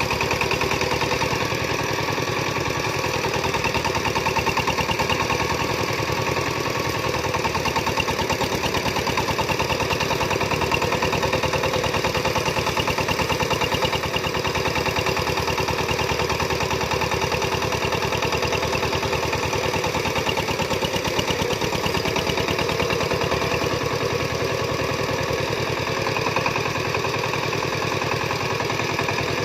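Farm engine running steadily with a fast, even chugging beat.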